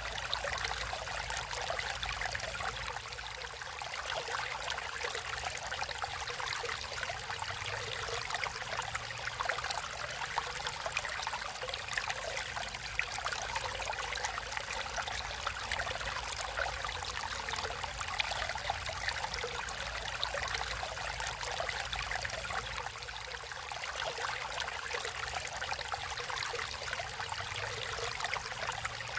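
Stream water running and trickling steadily over rocks, a constant splashing babble with no pauses.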